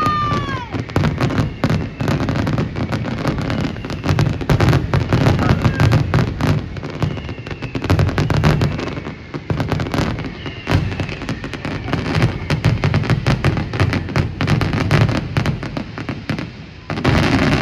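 Dense barrage of fireworks: rapid crackling and banging bursts with no let-up. A whistling firework glides down in pitch right at the start, and a few fainter falling whistles come partway through.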